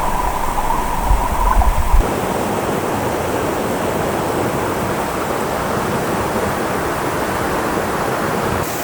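Fast-flowing mountain stream rushing steadily. A low rumble under it for the first two seconds stops abruptly.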